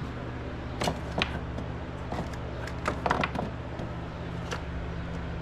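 A few scattered knocks and clatters of objects being handled, the loudest a quick cluster about three seconds in, over a steady low electrical hum.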